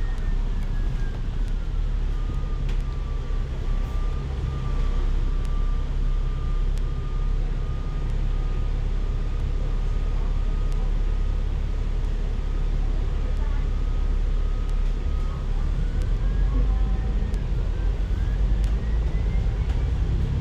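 City bus running, heard from on board: a steady low drivetrain rumble with a thin whine that falls in pitch a couple of seconds in, holds level, then rises again near the end.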